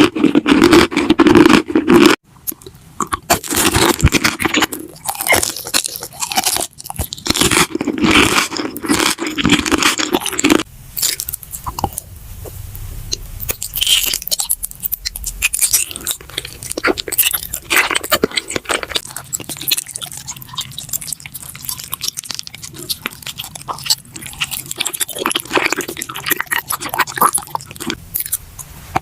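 Close-miked eating: crunchy bites and chewing, dense and loud for the first ten seconds or so, then softer, sparser chewing.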